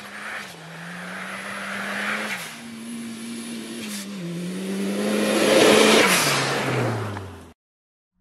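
Toyota Celica GT4 ST205's turbocharged four-cylinder engine revving hard as the car is driven through a slide, its pitch stepping up and down with the throttle. It gets louder as the car comes close, loudest about six seconds in, then the revs fall and the sound cuts off suddenly near the end.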